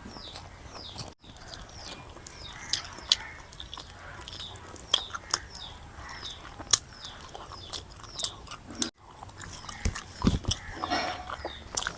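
Close-miked chewing and wet mouth clicks of someone eating biryani and curry, with sharper clicks now and then and a few dull thuds near the end. Short high chirps repeat in the background.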